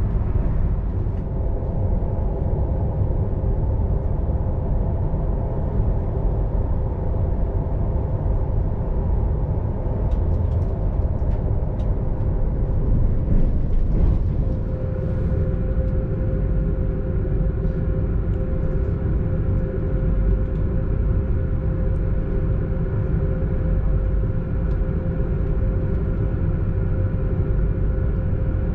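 Belgian Railways Class 96 (AM/MS96) electric multiple unit running, heard from on board: a steady low rumble with a few steady tones on top that shift in pitch about halfway through.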